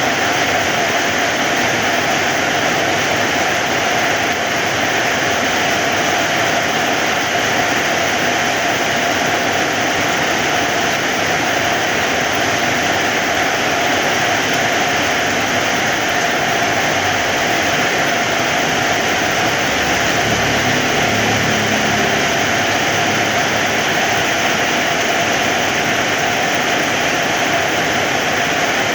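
Heavy rain falling, a loud, steady hiss. About two-thirds through, a brief low rumble sits under it.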